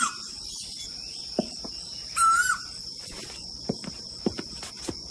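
Tropical outdoor ambience: a steady high-pitched insect drone, with a bird giving a short rising call twice, about two and a half seconds apart. A few faint taps come in the second half.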